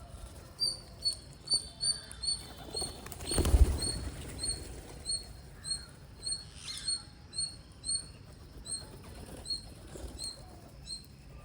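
A bird giving a steady run of short, high chirps, about two or three a second. A loud rustling flutter comes about three and a half seconds in.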